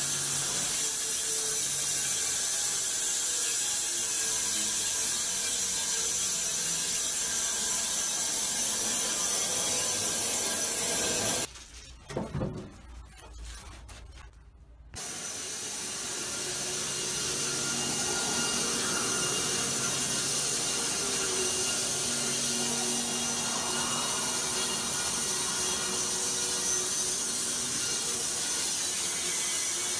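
Sawmill machinery running with a steady mechanical noise. It cuts out abruptly for about three seconds partway through, then comes back.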